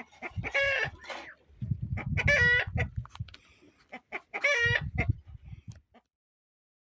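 Chickens calling: three loud, short calls about two seconds apart, with low thumping sounds between them. The sound cuts off suddenly near the end.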